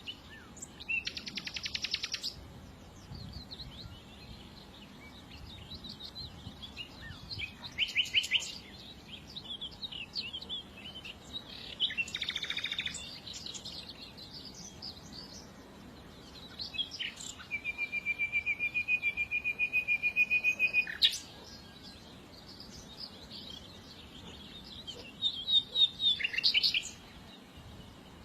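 Songbirds singing in separate phrases of rapid chirps and trills, five in all, a few seconds apart. The longest phrase, past the middle, is an even trill of about three and a half seconds.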